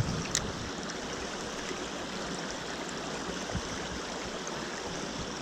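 Small mountain stream rushing and babbling over rocks, a steady even water noise, with a brief click about a third of a second in.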